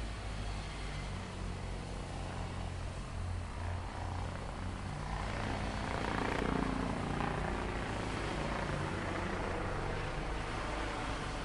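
A large engine running with a steady low rumble, which swells louder for a few seconds around the middle before settling back.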